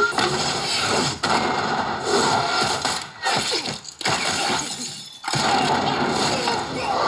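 Loud crashing, shattering noise with falling whooshes, breaking off abruptly a few times.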